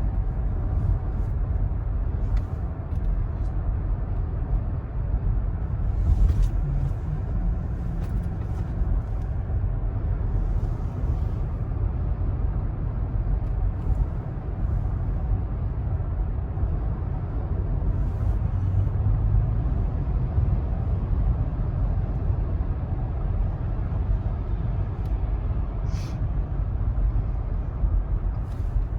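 Steady low road and engine rumble inside the cabin of a moving car, with a few faint clicks.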